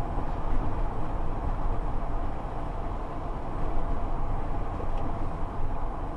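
Strong gusty wind rushing and buffeting the microphone, a dense low rumble that swells and dips in irregular gusts.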